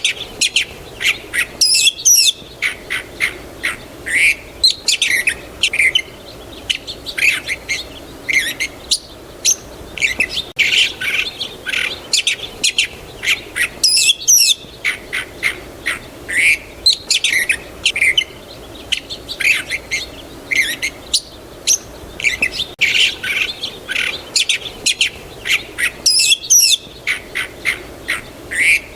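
Birds chirping and calling in quick, overlapping short notes. The same stretch of birdsong repeats about every twelve seconds.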